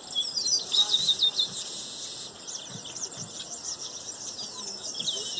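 Many small birds chirping and twittering at once, a dense run of quick high calls overlapping one another.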